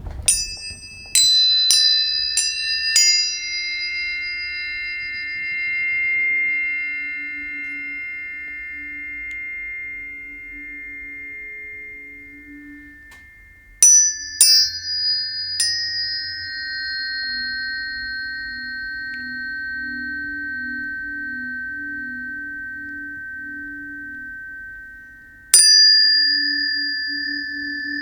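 Planetary tuning forks struck and left ringing: five quick strikes at the start, three more about halfway through and one near the end. Each strike sets off long, steady tones that slowly fade and overlap, some of the lower ones pulsing slowly as they beat together.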